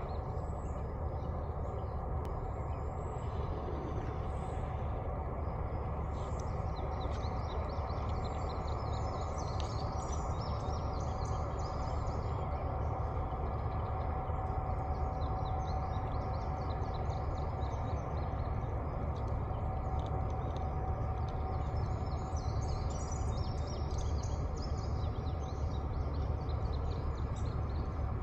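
Low rumble of a distant train, growing slowly louder, with a faint steady whine joining in the middle. Songbirds chirp throughout.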